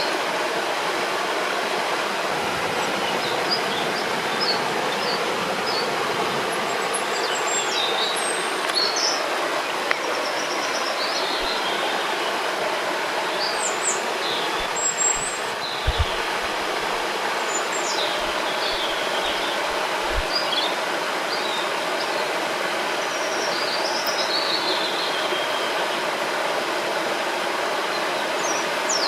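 Steady rushing of a river or waterfall, with birds chirping and singing in short high calls over it throughout. A few brief low thumps come about halfway through.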